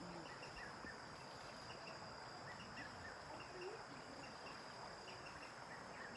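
Rainforest insects: a faint, steady high drone, with many short high chirps scattered through it.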